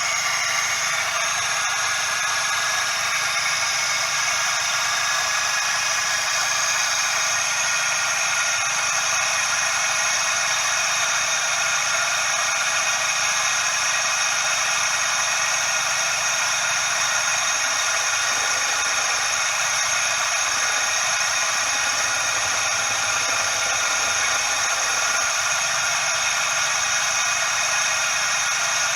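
Suzuki Every DA64V engine running with a steady loud hissing 'shaa' whine from the belt tensioner pulley bearing. The noise points to a bearing that has run out of grease.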